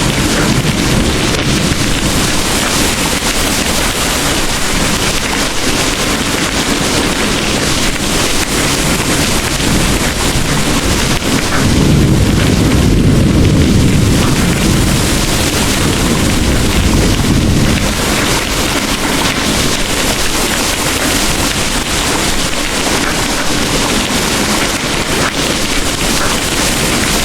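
Heavy rain pouring steadily, with a low rumble of distant thunder that swells about halfway through and fades after a few seconds.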